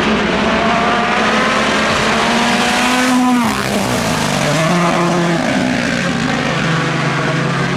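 Rally car engine at high revs. The pitch climbs for about three seconds, then drops sharply as the driver lifts or changes gear, then picks up again and holds steady.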